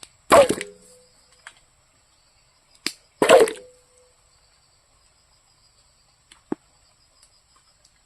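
Two loud metal clanks about three seconds apart, each leaving a short ring, from cookware being handled as beetroot is set to boil, followed later by a few small clicks.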